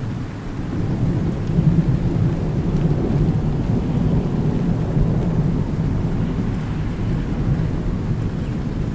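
Long low rumble of rolling thunder over steady rain, swelling about a second in and rumbling on.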